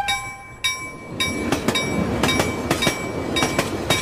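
A train passing close by: a steady rumble with its wheels clacking over the rail joints in quick pairs of clicks, several a second. A fading chime note dies away in the first half second.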